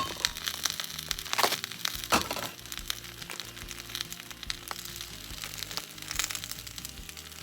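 Butter and new onions crackling and popping in a hot pan, with two louder knocks about one and a half and two seconds in as coarse-ground sausages go in. Background music plays.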